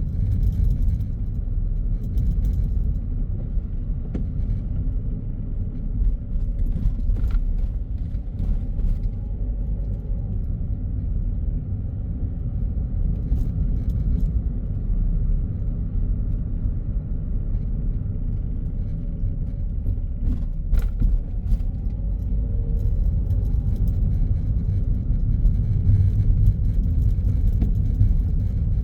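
Car driving along a city road: a steady low road and engine rumble, with a few faint clicks.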